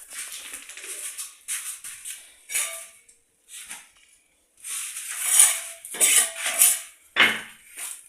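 Metal scraping and clinking in irregular strokes, some short and some up to about a second long, with a faint ringing of metal; the loudest strokes come in the second half.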